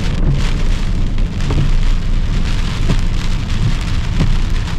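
Hurricane rain beating on a moving car, heard from inside, over a steady low rumble of the car on the wet road.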